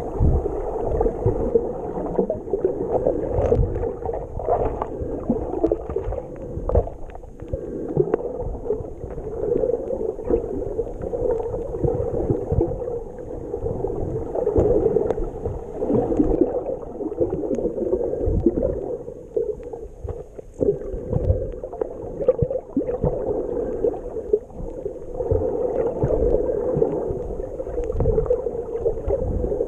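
Jet ski engine running steadily under way, with water splashing and wind buffeting the microphone in irregular low rumbles.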